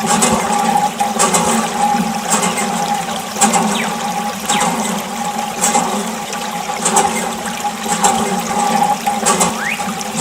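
Water gushing and splashing from a small motor-driven water pump, with a steady motor hum under it and a surge about once a second.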